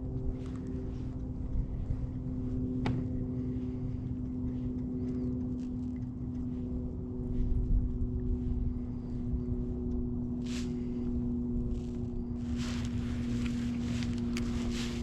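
A steady low motor hum with wind rumbling on the microphone, and a few short rustles near the end.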